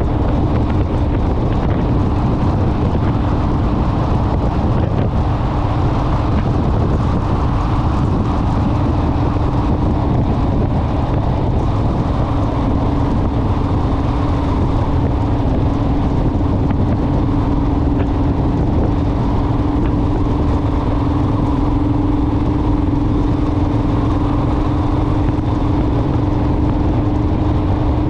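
Honda Rebel motorcycle cruising at steady speed: a steady engine drone over heavy wind and road rumble.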